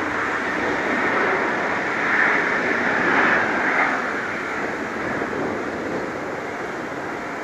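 Jet engine noise from a landing Boeing 737-800: a steady rushing noise that is strongest about two to four seconds in and then slowly fades.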